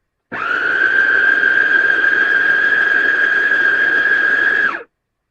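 JOYAMI electric food processor motor whining steadily as its stainless steel blades chop cooked chicken. It spins up just after the start, runs for about four and a half seconds, and winds down near the end.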